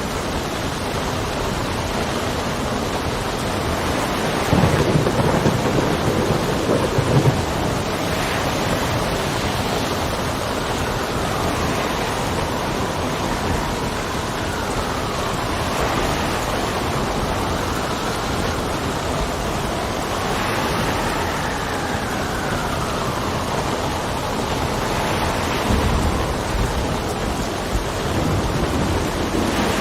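Steady rain with thunder rumbling, a long roll about five seconds in and a shorter one near the end. Through the middle, wind whistles in faint rising and falling tones.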